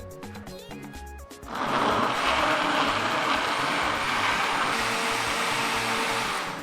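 Electric countertop blender running loud and steady for about five seconds, puréeing tomatoes, peppers and onions with coconut milk; it starts about a second and a half in and stops just before the end. Background music plays underneath.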